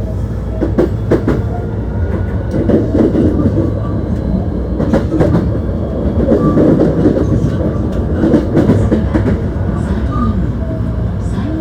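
Hankyu 1300 series electric train heard from inside the car while running between stations: a steady rumble of wheels on the track, with sharp clicks as the wheels cross rail joints, several of them close together about a second in and again about five seconds in.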